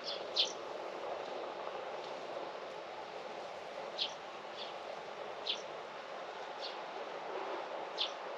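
Wild birds giving short, sharp chirps, singly or in pairs a second or more apart, over a steady low background rush of outdoor ambience.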